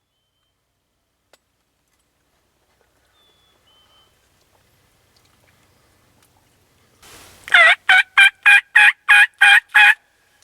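A run of about eight loud turkey yelps, evenly spaced at roughly three a second, each note dropping in pitch. The run starts about seven seconds in, just after a short scratchy noise.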